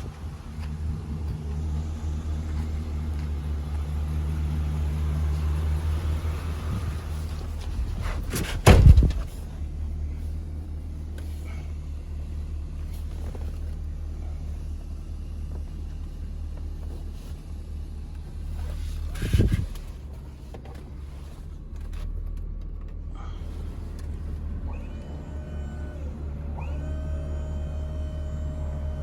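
Dump truck's engine idling steadily, with two loud knocks about nine and nineteen seconds in. Faint steady tones come in near the end.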